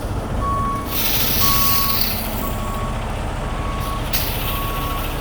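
Heavy tow truck's backup alarm beeping about once a second, one steady tone, over its diesel engine running, with a short hiss about a second in.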